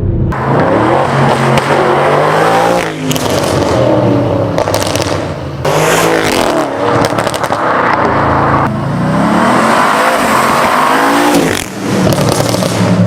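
Audi RS7's twin-turbo V8, running through an ARMYTRIX valved exhaust with race downpipes, accelerating hard through the gears. The engine note climbs and then drops at each upshift, about four times, at about 3, 6, 9 and 12 seconds in.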